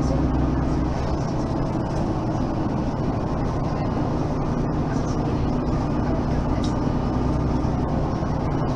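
Mercedes-Benz Citaro facelift city bus running with a steady, even engine drone, easing slightly about a second in.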